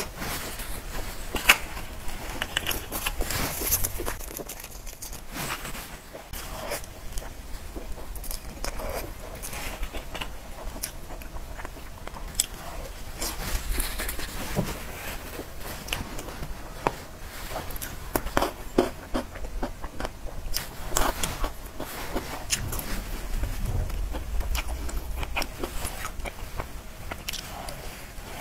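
Close-miked eating sounds of a person chewing soft cream-filled pastry and cream cake: irregular small clicks and mouth noises throughout.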